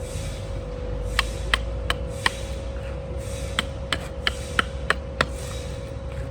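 Sharp wooden knocks or taps, about three a second in two short runs, over a steady machine hum.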